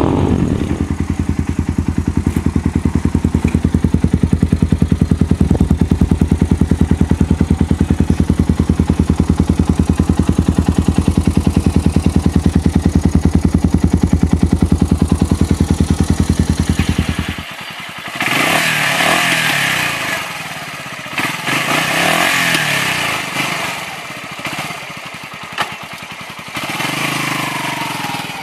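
Suzuki TU250 Grasstracker's single-cylinder engine running steadily at idle through its exhaust, with an even, rapid pulse. About 17 seconds in the sound changes abruptly to the engine being revved, its pitch rising and falling in several bursts.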